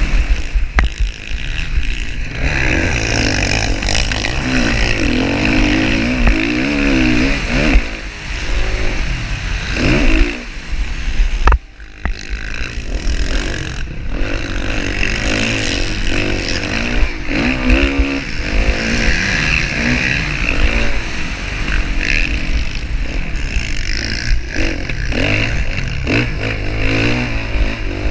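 Motocross dirt bike engines racing, revving hard and rising and falling in pitch as the throttle opens and shuts through gear changes. The throttle is chopped sharply for a moment about twelve seconds in.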